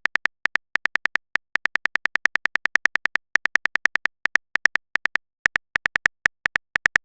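Rapid, irregular string of short identical beeps, about six a second: a typing sound effect.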